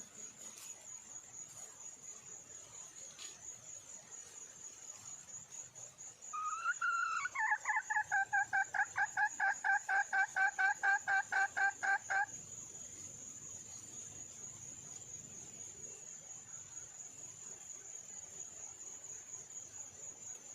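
Red junglefowl hen calling: a drawn-out opening note about six seconds in, running straight into a quick series of repeated clucks, about four to five a second, that stops suddenly some five seconds later. A steady high insect trill goes on underneath.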